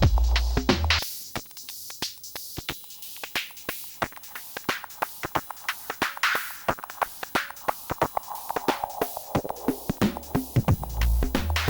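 Machinedrum drum machine beat fed through the hexagen2612 DIY analog synth's filter: fast sharp percussion, with a deep bass line that drops out about a second in and returns near the end. While the bass is gone, the filter's resonance sweeps down in pitch across the beat.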